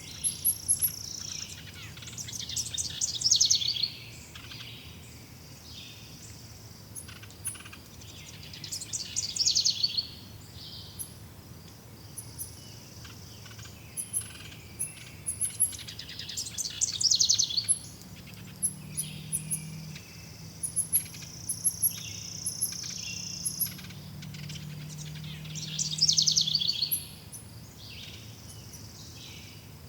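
Forest birdsong: one bird repeats a loud, fast trilled phrase about every seven seconds, with many short, very high chirps between and a steady high buzz twice for a couple of seconds.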